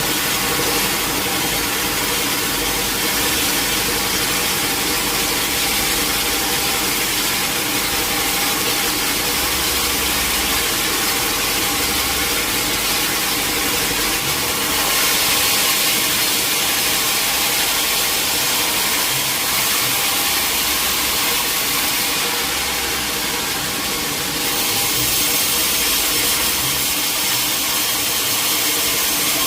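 Sawmill machinery running steadily: a constant motor hum with a loud hiss over it. The hiss grows brighter about halfway through and again a little later.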